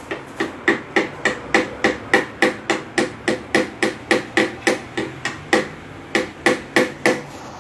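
A hammer tapping steadily: about two dozen light blows at roughly three and a half a second, each with a short ring, stopping shortly before the end.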